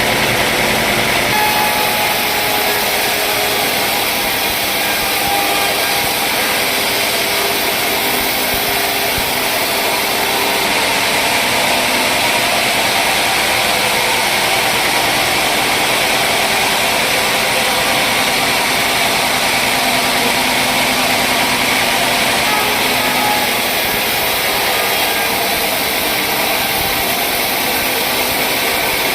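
Sawmill machinery running steadily with a loud, even noise.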